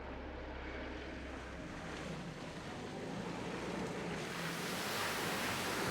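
A steady rushing noise over a low hum, swelling louder and brighter about four seconds in.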